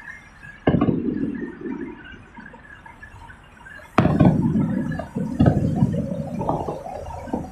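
Fireworks going off: a boom just under a second in, then a sharper, louder bang about four seconds in, followed closely by another boom, each trailing off in a low rumble.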